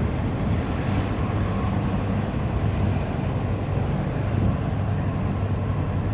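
Diesel train engine rumbling steadily, with wind blowing on the microphone.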